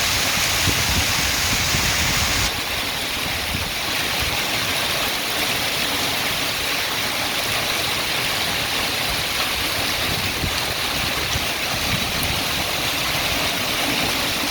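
Wind-driven hail and heavy rain coming down as a steady rush of noise, which becomes a little quieter and changes character about two and a half seconds in.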